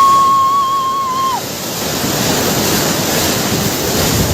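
Loud, steady rush of turbulent water, with wind buffeting the microphone. For the first second and a half a steady high whistle-like tone sounds over it, then cuts off.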